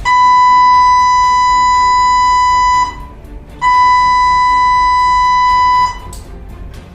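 Two long, steady, high-pitched beeps at a single pitch, the first nearly three seconds and the second a little shorter, with a short gap between, over faint background music.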